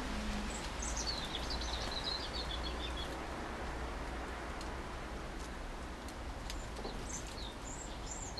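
Small songbird singing a twittering phrase that falls in pitch about a second in, then a few short high calls near the end, over steady outdoor background noise.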